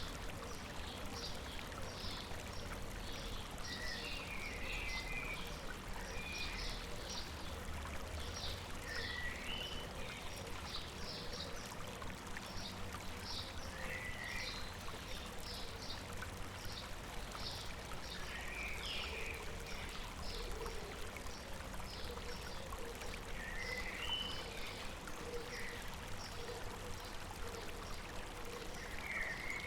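A stream running steadily, with birds calling over it: short high chirps repeating throughout and a brief warbling phrase every few seconds.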